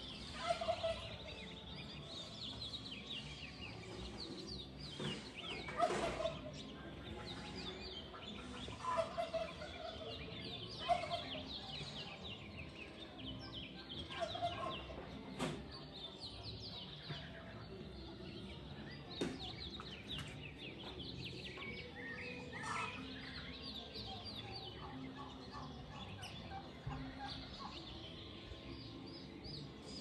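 Birds calling: a steady chatter of quick high chirps, with louder, lower calls breaking in every few seconds.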